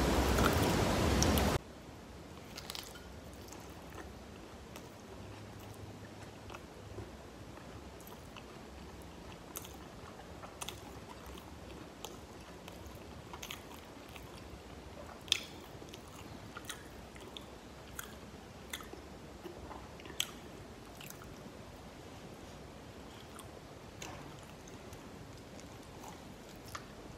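Close-miked chewing and biting of crispy fried chicken wings: scattered crunches and mouth clicks over a quiet background, with two sharper crunches about 15 and 20 seconds in. For the first second and a half a loud rushing noise plays, then cuts off suddenly.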